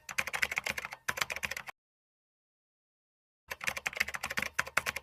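Rapid keyboard typing clicks in two runs, with a complete silence of about two seconds between them.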